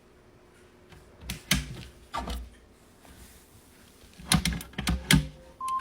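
A few scattered knocks and clatters of things being handled and moved, then near the end a steady electronic beep starts: an Amazon Fire tablet's timer alarm going off.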